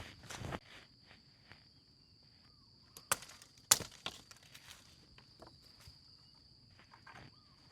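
A steady, high-pitched insect drone in forest, with a few scattered footsteps or sharp snaps on the ground; the two loudest come about three seconds and three and a half seconds in.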